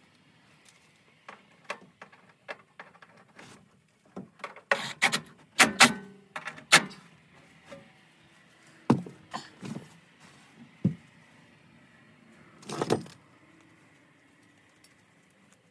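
Irregular clicks, knocks and light metal clatter, thickest in a burst about five to seven seconds in, with single knocks after and a short rattle near the end.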